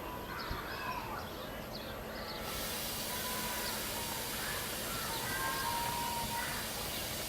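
Moving train, a steady rumble with faint wheel squeals. About two and a half seconds in, the sound changes abruptly to a steady hiss with a few faint, thin squeaks.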